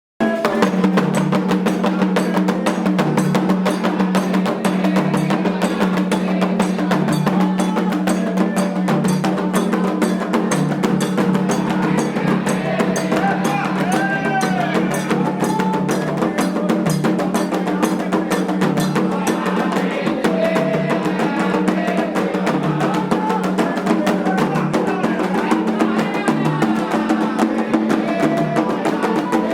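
Candomblé ritual music: atabaque hand drums beat a fast, steady rhythm, with voices singing over them.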